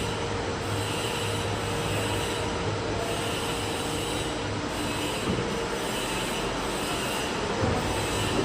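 Steady running machinery: a constant hum and hiss with a faint steady whine, and a rhythmic swelling about every second and a half.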